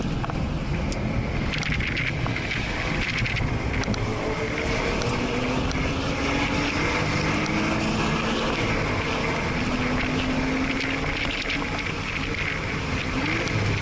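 Porsche flat-six engine heard from inside the cabin at speed, its pitch climbing several times with gear changes in between, under road and wind noise.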